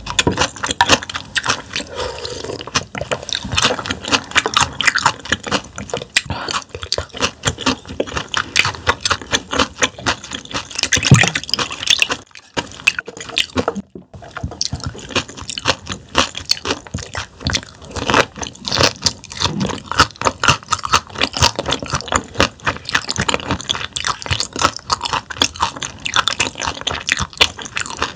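Close-miked chewing of raw damselfish sashimi: a dense run of wet smacking clicks and crunches, broken by a short pause a little before halfway.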